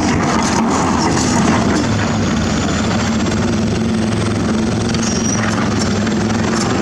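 Excavator diesel engine running steadily, with a few light clanks in the first couple of seconds.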